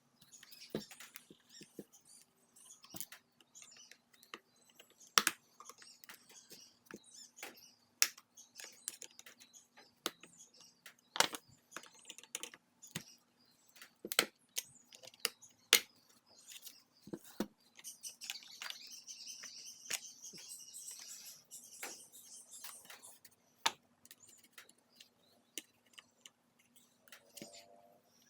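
Hands working on a Shark vacuum power nozzle: scattered sharp clicks and taps of plastic parts being handled, with a few seconds of scraping or brushing about two-thirds of the way through.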